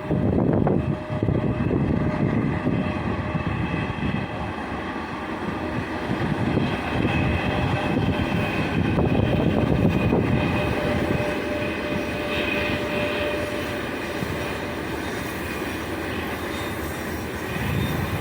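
A 3ES5K "Ermak" three-section electric locomotive and a short work train of wagons rolling past on the rails. There is a continuous rumble of wheels on track that swells and eases, with faint steady whining tones.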